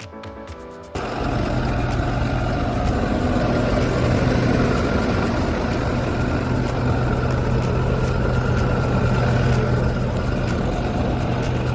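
Diesel engine of a 2011 International DuraStar 4300 truck running steadily with a constant low hum, coming in abruptly about a second in.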